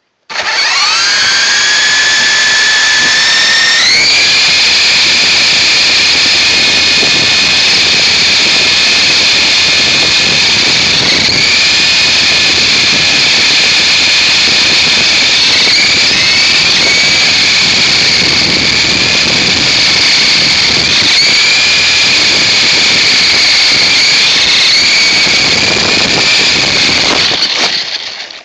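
RC helicopter's motor and rotor whining at close range, heard from a phone strapped to the helicopter: it spools up with a rising whine, then holds a steady high pitch with a few brief dips as the throttle changes, and winds down near the end.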